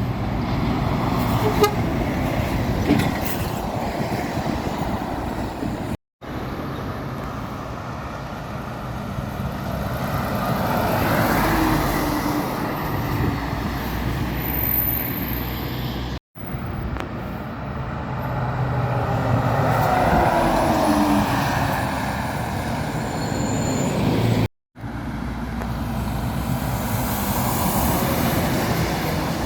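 Lorries passing on a main road, each pass swelling and fading, cut off abruptly three times where clips are joined. A horn toots briefly about two seconds in.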